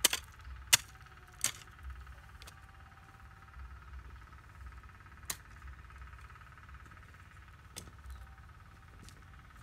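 A few sharp, separate knocks or clicks, three in the first second and a half and two more later, over a faint steady high hum.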